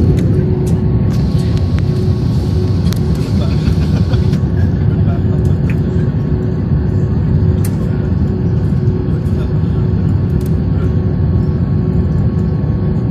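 Airliner on its landing approach: a steady low rumble of engines and rushing air with a constant hum, holding an even level throughout.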